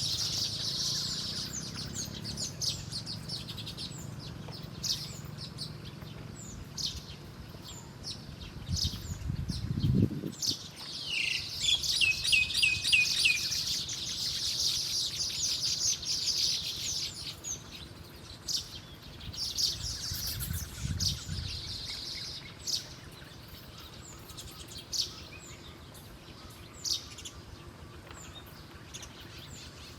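Small birds chirping with many short, high calls, including a quick run of repeated notes about a third of the way in.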